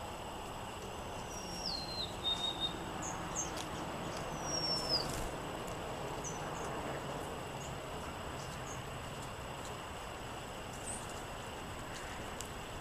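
Wind blowing steadily, with small songbirds calling over it: two descending whistled notes a few seconds apart, and scattered short, high chips.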